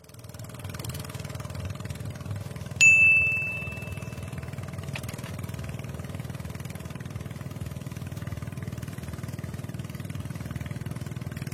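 An engine running steadily, with a single bright bell-like ding about three seconds in that rings on and fades.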